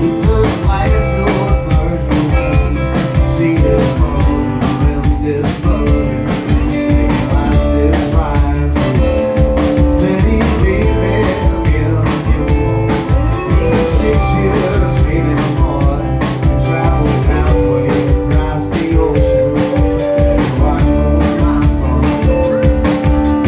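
A live band playing an instrumental passage of a song, with guitar over a steady drum-kit beat.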